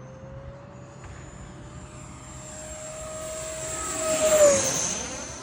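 Freewing Eurofighter Typhoon RC jet's electric ducted fans whining in flight as it makes a pass. The whine grows steadily louder and climbs slightly in pitch, peaks about four and a half seconds in, then drops in pitch and fades as the jet goes by.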